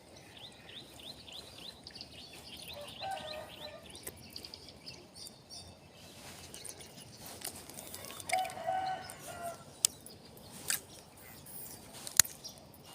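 Birds calling outdoors: a rapid run of high chirps, then twice a lower call with several tones. A few sharp clicks come in the second half, the loudest near the end.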